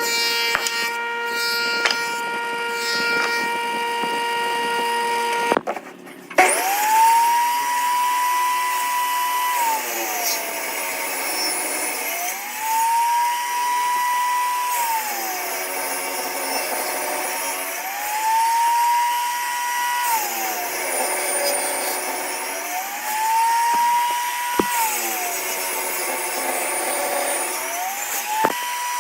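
Electric power tool working wood, its motor whine rising, holding high and then dropping again about every four seconds after a brief break about six seconds in.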